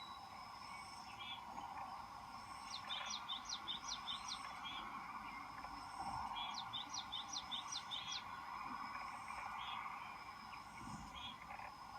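A small bird calling: two quick runs of five or six high, sharp notes, the second about three seconds after the first, over a steady outdoor background hum.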